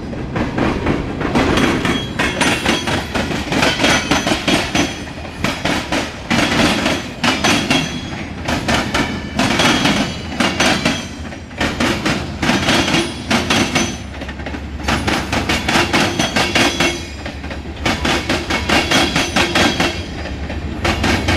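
Freight train rolling slowly backwards, its car wheels clacking over the track joints in repeated clusters of knocks, over a steady low rumble.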